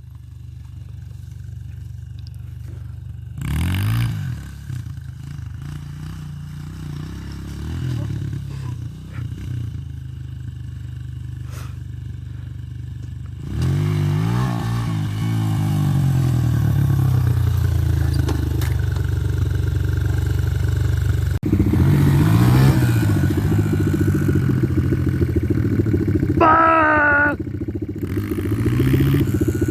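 Dirt bike engine running, revved up and back down several times, with the engine louder from about halfway through. A brief higher, wavering tone sounds near the end.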